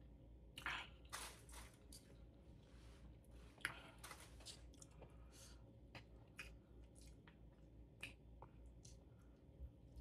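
Quiet, close-miked chewing and wet lip smacks of a person eating soft food with her fingers, with a few sharper mouth clicks, the loudest about a second in and near four seconds in.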